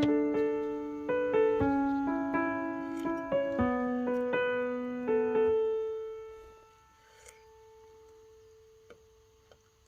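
Background piano music: a slow phrase of single struck notes that closes on a last note left to ring and fade out about six seconds in, leaving only a faint lingering tone.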